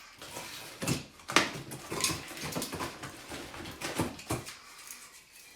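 Irregular knocks, scrapes and rustling of hand demolition work as a sawdust-filled wall is opened up.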